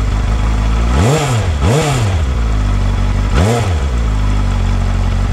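Benda LFC700's four-cylinder engine idling, with three quick throttle blips that rev it up and let it fall back to idle: two close together about a second in, and one more about three and a half seconds in. It is heard close at the exhaust outlets.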